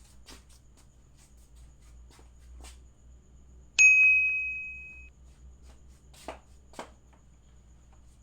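A single bright metallic ding about four seconds in, ringing out and fading over about a second, over a faint steady low hum and a few soft clicks.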